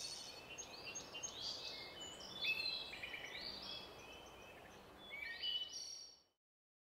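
Birds chirping, many short high notes that slide up and down, over a steady background hiss. The sound starts suddenly and cuts off about six seconds in.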